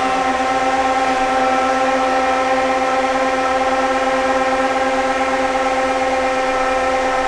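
Electric kitchen blender running at a constant speed: a steady motor whine with a hum underneath, holding one pitch.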